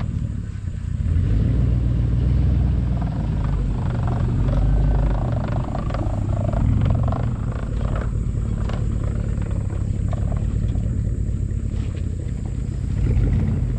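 Low, uneven rumble of a motor vehicle running, swelling and easing a few times.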